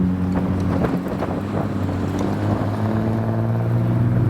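A modified car's engine running at low revs as it pulls away, with a steady low exhaust note. Wind buffets the microphone.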